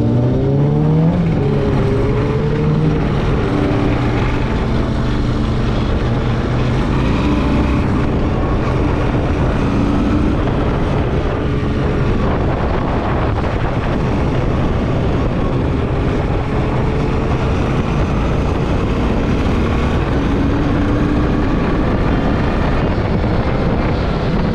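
Motorcycle engine running under way with wind rushing past, speeding up in a rising pitch about a second in.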